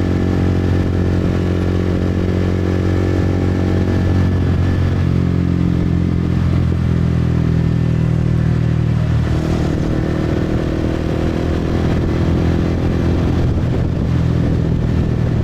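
Motorcycle engine running steadily while riding, its note shifting a couple of times as engine speed changes.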